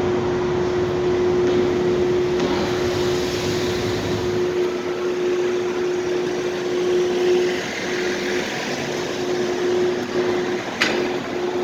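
Car park ambience: a steady mechanical hum holding one constant tone, with a low rumble that dies away about four and a half seconds in and a single sharp click near the end.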